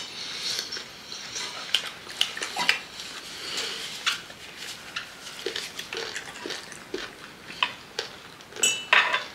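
Eating sounds of people chewing chicken feet: scattered wet mouth smacks and soft clicks, with a brief high squeak near the end.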